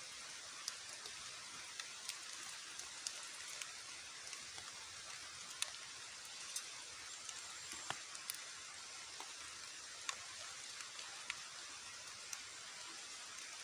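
Rain falling steadily, with scattered sharp ticks of single drops hitting close by.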